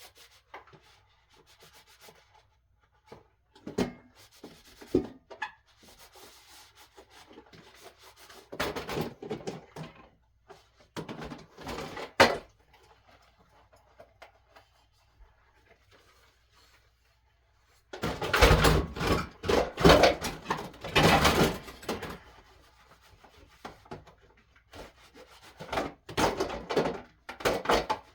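Rubbing and scraping in bursts of a second or two, the longest and loudest run about two-thirds of the way through, with a few sharp knocks between them.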